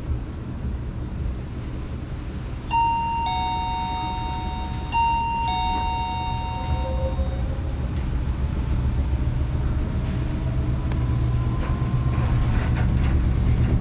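Hitachi SF-150TCV top-loading washing machine starting its spin-dry: a steady low rumble grows louder as the drum picks up speed, with a faint rising motor whine, a spin the owner finds very loud and suspects comes from an off-centre drum axis. A two-note electronic chime sounds twice, about three and five seconds in.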